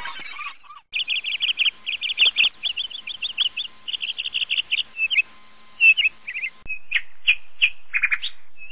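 Songbirds singing: fast runs of high repeated chirps, after a denser clamour of calls breaks off about half a second in. A little past the middle the song changes to separate, spaced chirps.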